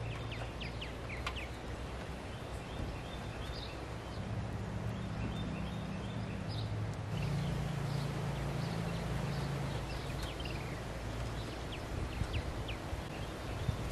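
Outdoor ambience: small birds chirping now and then over a low, steady hum.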